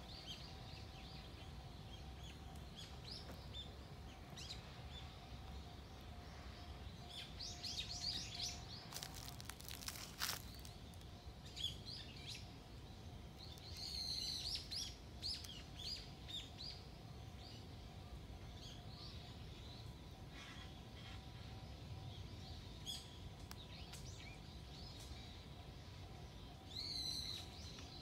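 Wild birds chirping and calling in short clusters over a low, steady outdoor rumble, with a faint steady hum underneath and a single brief click about ten seconds in.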